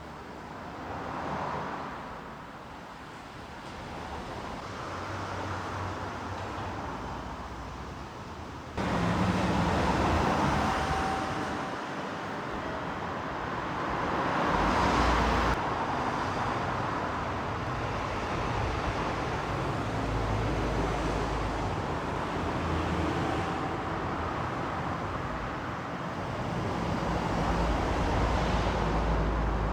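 Steady road traffic noise of cars passing. It changes abruptly about nine seconds in and again around fifteen seconds, getting louder at the first change.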